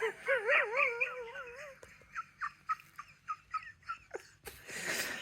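Bulldog whining: a wavering, high whine for about two seconds, then a string of short high whimpers, about four a second, and a breathy snuffle near the end.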